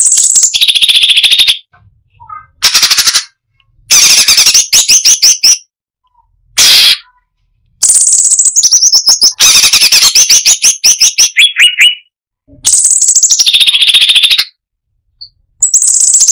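Cucak cungkok (crested finchbill) singing loud, busy phrases of rapid repeated notes and fast trills, separated by short pauses.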